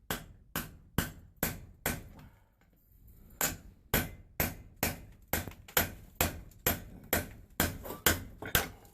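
Hammer striking a chisel in a steady run of sharp, ringing metal blows, about two a second, with one short pause about two seconds in.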